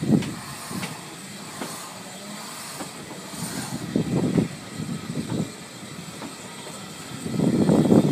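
Narrow-gauge steam-hauled train running along the track, heard from an open carriage window: a steady rumble broken by clusters of rapid wheel clatter over rail joints and points. The clatter comes about a second in, again around four seconds, and loudest from about seven seconds on.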